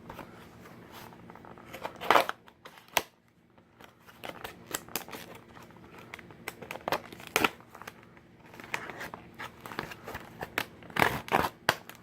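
Stiff plastic blister packaging of a diecast toy car being cut and pried open: irregular crackling, snipping and clicking, with louder bursts about two seconds in, around seven seconds and near the end.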